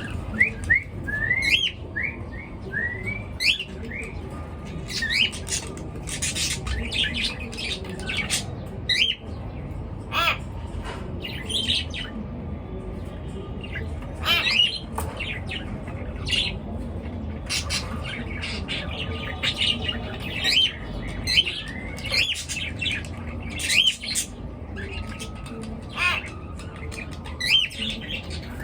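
Pet cage birds chirping and squawking throughout: many quick rising chirps and sharp calls overlapping, with no pause.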